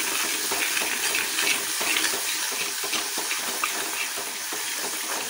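Ground spice paste frying and sizzling in hot oil in a pan while it is stirred, with frequent light clicks and scrapes of the stirring spoon against the pan.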